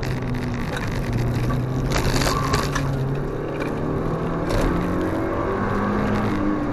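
Mazda NC Roadster's 2.0-litre four-cylinder engine heard from inside the cabin on the move, its note falling off over the first two seconds and climbing again in the second half. A brief harsh rattle about two seconds in.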